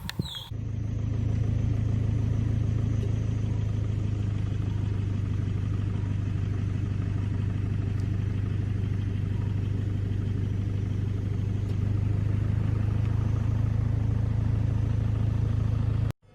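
An engine running steadily with a low, even drone, cutting off suddenly near the end.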